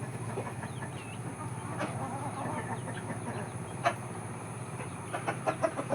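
Chickens clucking in a backyard flock, with scattered short calls and a quick run of clucks near the end, over a steady low hum.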